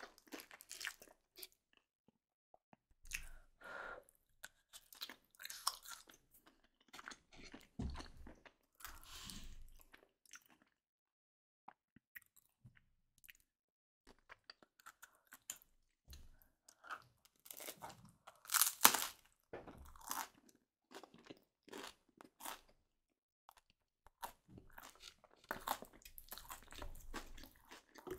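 Close-miked eating sounds: a person chewing and crunching mouthfuls of baked chicken-and-mushroom julienne, in irregular bursts with a pause of a few seconds about halfway, and the loudest crunching about two-thirds of the way through.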